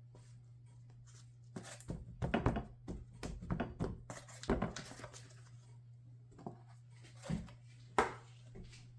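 Seasoned, flattened chicken breast being coated in flour by hand: a series of irregular knocks, pats and rustles, the sharpest near the end, over a steady low hum.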